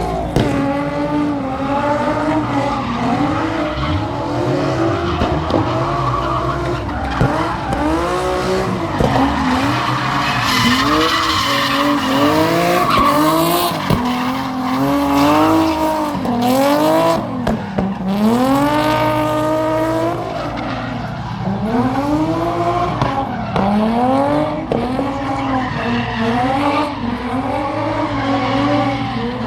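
Drift car engine revving hard and falling back over and over as the car slides, with tyres squealing and skidding, most strongly around the middle.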